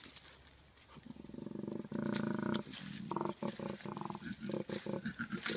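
Koala bellowing: a deep, low, rasping call that runs for about a second and a half, then breaks into a run of short, rhythmic pulses, several a second.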